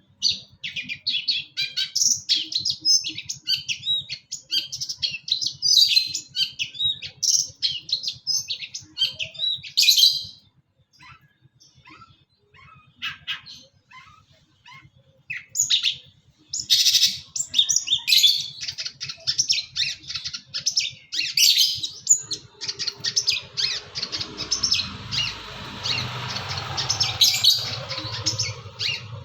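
Long-tailed shrike (pentet) singing a fast, varied song full of mimicked calls of other birds, with a lull of a few seconds of soft single chips midway. In the second half a steady rushing noise sits underneath the song.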